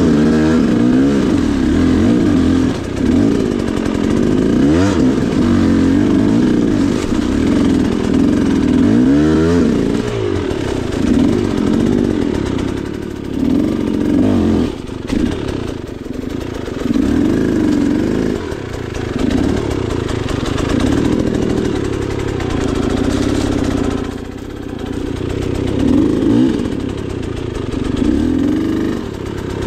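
Off-road dirt bike engine running at low speed, its revs repeatedly rising and falling with short throttle openings as it crawls along a rough trail.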